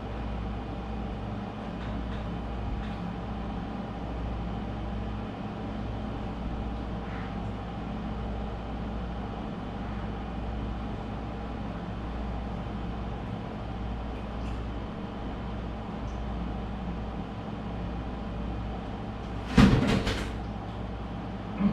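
Steady low mechanical hum, with a brief loud clatter of several knocks near the end and one more knock just after.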